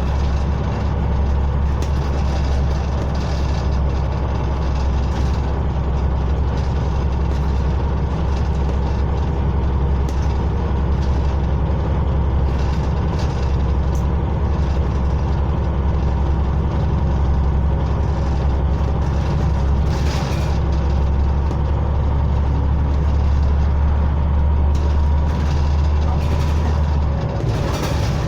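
Interior of a Scania OmniCity diesel bus on the move: a steady low engine drone with scattered rattles and clicks from the body. The deep drone drops away near the end.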